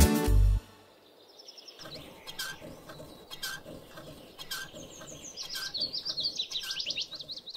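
Music cuts off about half a second in, then small songbirds chirp and trill, their calls growing busier in the second half. A faint tick recurs about once a second.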